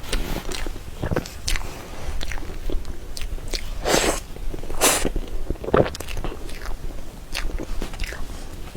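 Close-miked eating sounds of soft cream cake: irregular wet mouth smacks and chewing, with two louder smacks about four and five seconds in.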